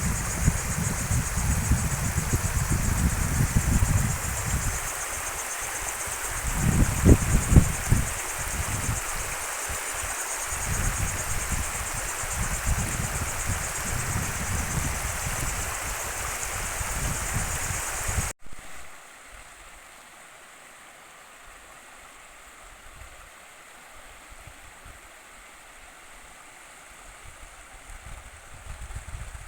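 Steady rush of a stream's running water, with uneven low rumbling underneath in the first half. About 18 seconds in it cuts off suddenly to a much quieter, faint hiss.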